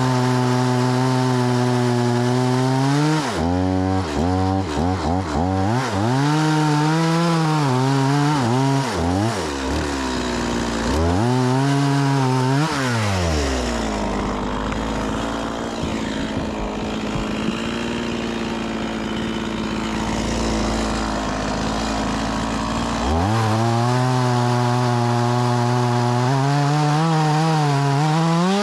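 Stihl MS 180 C-BE two-stroke chainsaw cutting firewood logs at high revs, with a run of quick throttle blips a few seconds in. It drops back to idle for several seconds around the middle, then revs up again to cut near the end.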